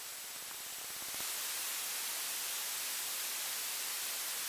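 Steady hiss of static on the aircraft radio and intercom audio between transmissions, growing a little louder about a second in.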